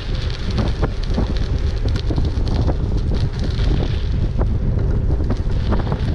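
Wind buffeting the microphone of a rider on a moving e-bike, a steady heavy rumble with frequent short clicks and knocks through it.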